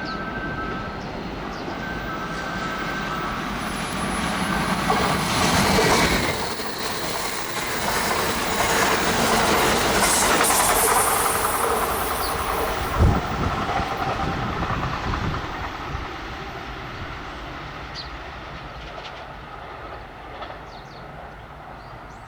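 Kintetsu electric train passing on the line, the rumble and clatter of its wheels on the rails growing to a peak in the middle and then fading away. There is a single sharp knock about thirteen seconds in.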